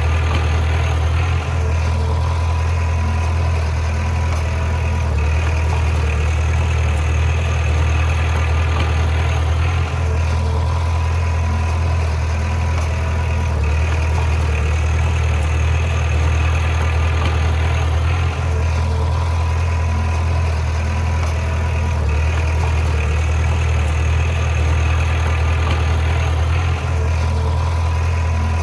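Bulldozer's heavy diesel engine running steadily with a deep drone, its sound easing briefly about every eight or nine seconds.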